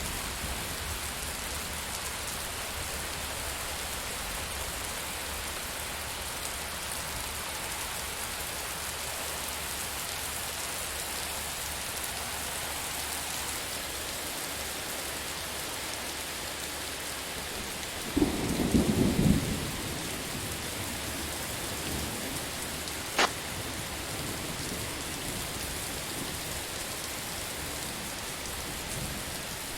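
Steady rain falling, with a short low rumble of thunder a little past halfway and a single sharp click a few seconds after it.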